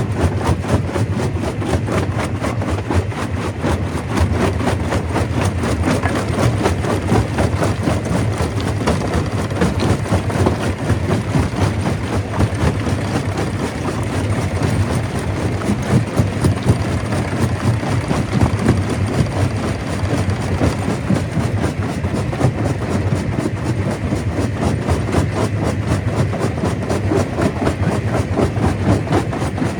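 Stone crusher running steadily, with a dense, continuous clatter of rock being crushed over a deep machine drone.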